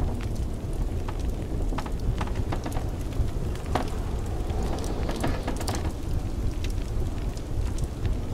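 Blizzard wind as a steady low rumble, with a wood fire crackling and popping in irregular sharp snaps over it.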